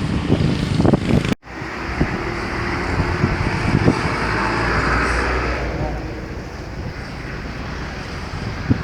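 Combine harvester engine running steadily in a rice paddy, with faint voices. The sound cuts out for a moment about one and a half seconds in.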